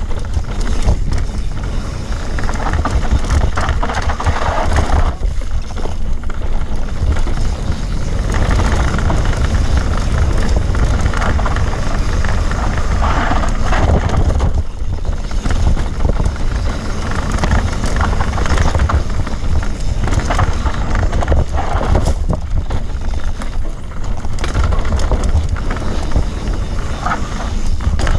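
Enduro bike ridden hard over an off-road trail: a steady loud rumble of wind buffeting the on-board microphone, with mechanical rattling and running noise that rises and falls with the terrain.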